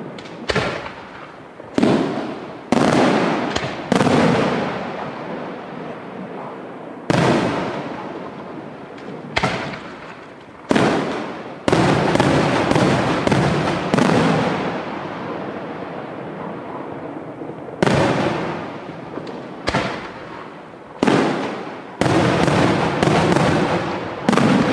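Aerial firework shells bursting overhead in quick succession, about twenty sharp bangs, each trailing off over a second or two. The bursts come thickest in a rapid run about halfway through and again near the end.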